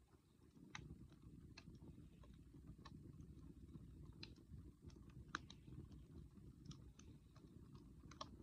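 Wood campfire crackling with sparse, irregular sharp pops, the loudest about five seconds in, over a faint low rumble.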